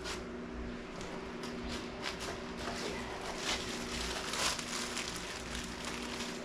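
Light clicks and rustling of hands handling small parts, over a steady hum.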